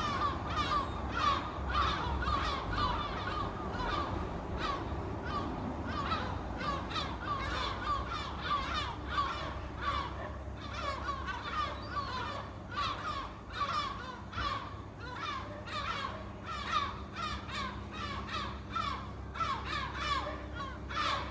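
A flock of gulls calling, many short harsh calls overlapping one after another without a break.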